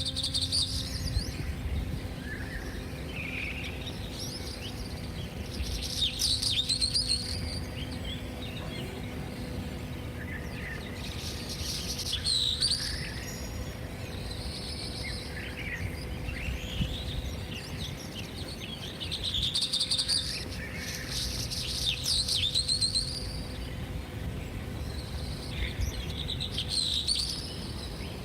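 Several birds singing and chirping, with loud song phrases coming back every few seconds over a faint steady hum and low rumble.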